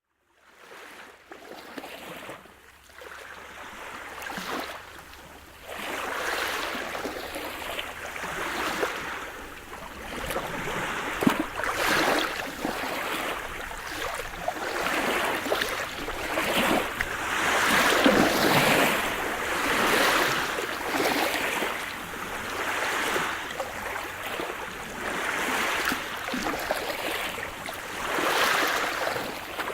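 Sea surf: waves breaking and washing in, the noise swelling and ebbing every two seconds or so. It fades in from near silence over the first few seconds.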